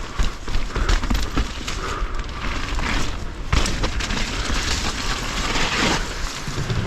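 Mountain bike rolling fast over a rough, wet trail: tyres crunching on dirt and roots, with frequent knocks and rattles from the bike and wind buffeting the helmet camera's microphone.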